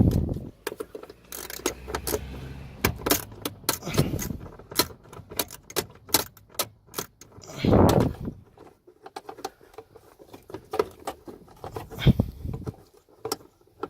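Metal clinks and rattles of hand tools, an 8mm socket and wrench, working fasteners under a car's dashboard, with many quick clicks and four heavier knocks spaced a few seconds apart.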